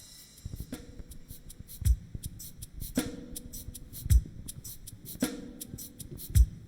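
Drum kit playing a slow beat. Bass drum and snare alternate, each about every two seconds, with light hi-hat ticks in between.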